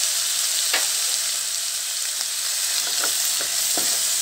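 Chopped onions and tomatoes sizzling steadily in hot oil in a kadai, with a spatula scraping and stirring against the pan a few times in the second half.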